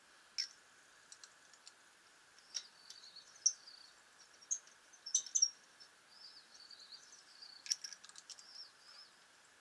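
Small birds chirping and twittering, with scattered sharp clicks and a faint steady high-pitched hum underneath.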